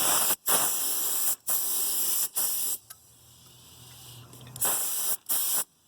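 Compressed-air paint spray gun hissing in six short bursts, four in quick succession, then a pause of nearly two seconds, then two more. The gun is spraying lacquer clear coat on too little air pressure from the compressor.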